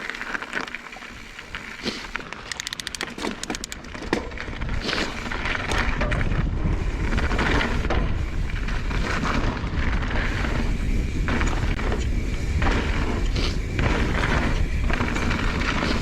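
Mountain bike riding on a rough trail. A rapid run of ticks from the coasting rear hub comes about three seconds in. About six seconds in, a loud low rumble of wind on the microphone and tyres rolling over rough ground builds as speed picks up, with frequent knocks and rattles.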